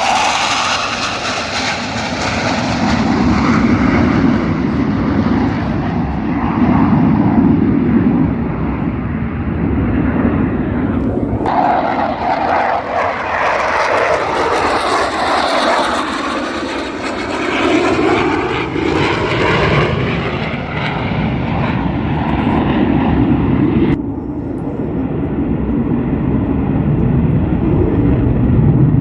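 Jet aircraft flying past overhead: a loud engine roar that swells and fades, with a whooshing tone that slides up and down as the jets pass. The sound changes abruptly about 11 seconds in and again about 24 seconds in.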